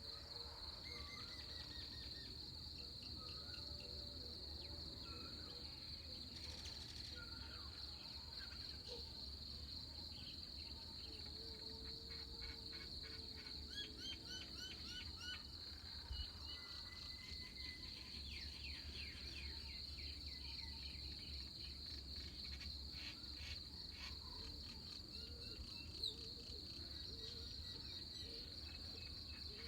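Steady, unbroken high insect chorus, crickets or similar, with scattered faint bird calls and short trills over it.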